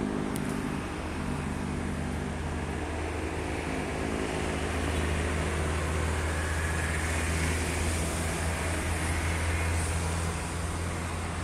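A steady low engine-like hum over a broad hiss, running evenly throughout.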